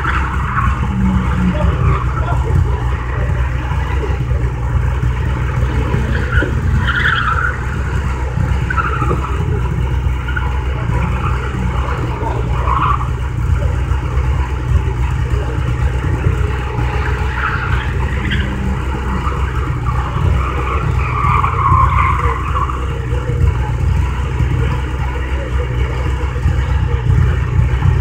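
Lada saloon engines idling with a steady low drone, while tyres squeal now and then from a car being driven hard around the slalom course, the loudest squeal about 22 seconds in.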